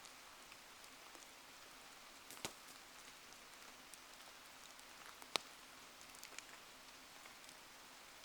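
Campfire in the rain: a faint, steady hiss of rain with scattered sharp ticks and pops. Two louder pops come about two and a half and five and a half seconds in.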